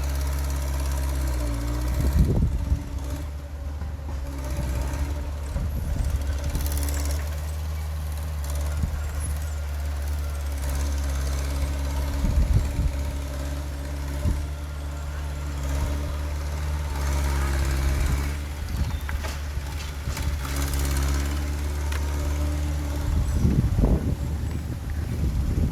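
Heavy earthmoving machine's diesel engine running steadily under a low hum, with loud knocks and bangs every few seconds.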